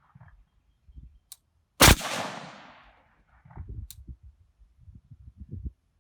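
A single gunshot from deliberate slow fire about two seconds in, its report echoing and fading over about a second. A few faint sharp ticks and low bumps follow.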